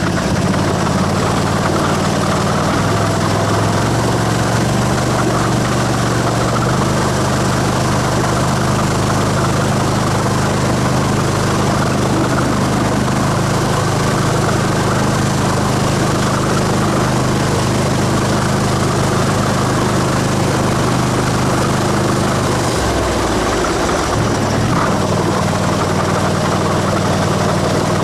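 Vehicle engine running steadily as it is driven slowly along. A little before the end the engine note dips briefly, then picks up again.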